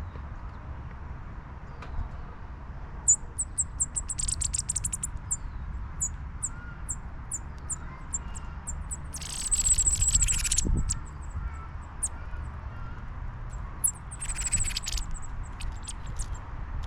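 Chipping sparrows calling: many short, high, thin chip notes, scattered and repeated, with three dense fast runs of notes, the loudest just past the middle.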